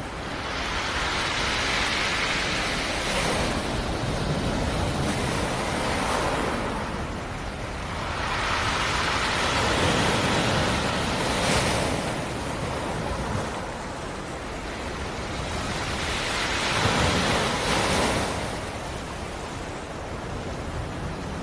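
Black Sea surf: waves washing ashore and drawing back, the hiss swelling and fading about three times.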